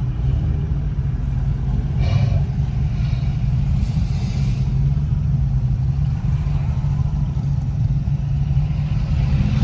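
Steady low drone of a car's engine and road noise as it creeps along in traffic.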